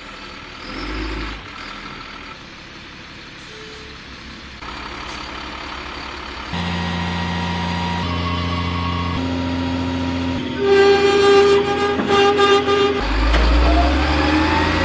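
A HIMARS launcher truck's engine running, with pitched whining from its rocket-loading machinery, in several short shots spliced together. The loudest stretch comes in uneven pulses about two-thirds of the way in, and a whine rises steadily in pitch near the end.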